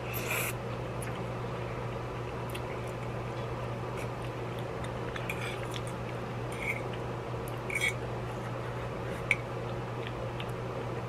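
Someone eating noodles: a slurp in the first half-second, then a handful of short wet mouth smacks and a fork clicking against a ceramic bowl, over a steady fan hum.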